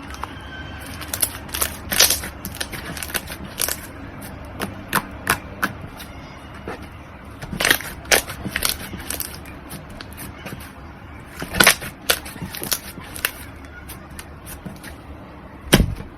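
Slime being squeezed and poked by hand, giving irregular sticky clicks and pops, with a few louder snaps spread through.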